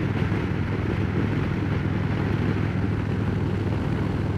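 Harley-Davidson Road Glide Special's V-twin running steadily at highway cruising speed through Rinehart Racing true-dual exhaust, with steady wind noise over the helmet-mounted microphone.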